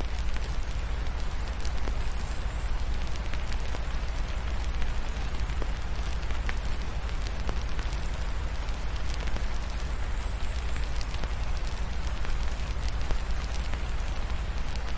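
Ambience of steady rain mixed with a crackling wood fire: a constant patter with scattered sharp crackles throughout, over a steady deep rumble.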